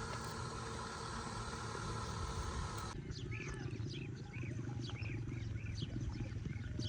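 A steady even noise gives way, about three seconds in, to a low rough rumbling growl with small birds chirping over it in a quick repeating pattern.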